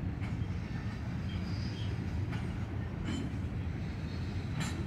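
Freight cars rolling slowly along a yard track: a steady low rumble of steel wheels on rail, with a few brief clicks and squeaks, the sharpest near the end.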